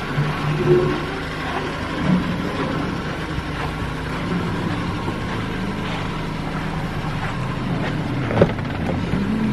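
2005 Toyota RAV4's four-cylinder engine idling steadily, with a single sharp click near the end as the driver's door handle is pulled.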